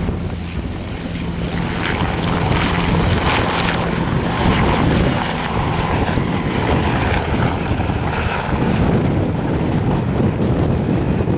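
Military aircraft running close and loud, its engine and propeller noise building over the first couple of seconds and then holding steady.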